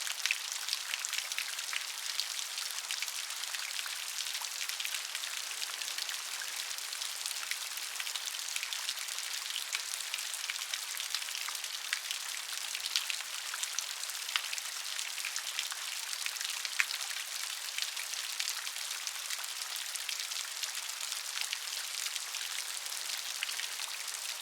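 Steady rain, with the patter of many individual drops ticking on a surface over an even hiss.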